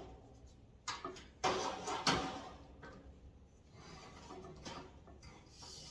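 Parts of a metal tool storage rack being handled and repositioned: a few sharp knocks and clanks in the first two seconds, the loudest about two seconds in, then quieter scraping and rubbing.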